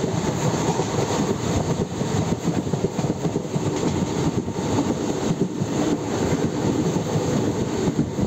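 Passenger train running at speed, a steady rumble and rattle of the coach and its wheels on the rails.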